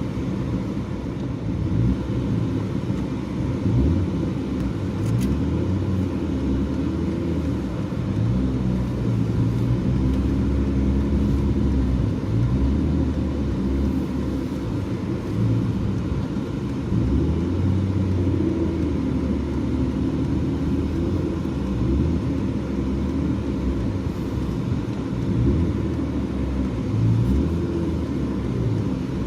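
BMW E36 car being driven: steady engine and road noise, the engine note rising and falling over and over.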